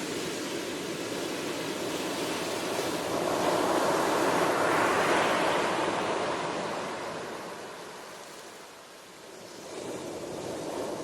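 Ocean waves on a shore: one wave builds to its loudest about halfway through, then washes back and fades, and the next wave starts to rise near the end.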